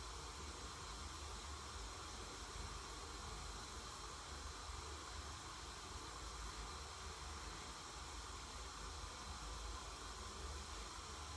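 Steady faint hiss with a low rumble underneath, unchanging throughout, with no distinct sounds: background noise.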